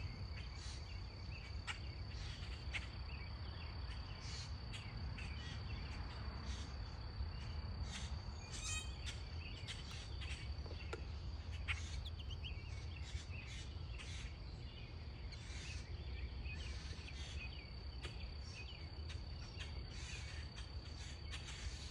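Outdoor backyard ambience: a steady high-pitched insect trill runs throughout, over a low hum, with scattered brief high bird chirps.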